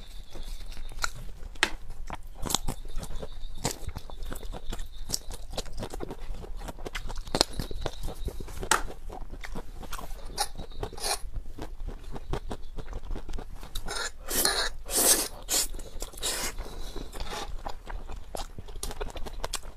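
Close-miked chewing and crunching of food, a dense run of irregular wet mouth clicks and crackles, picked up by a clip-on lapel microphone. A few louder, longer bursts come about three-quarters of the way through.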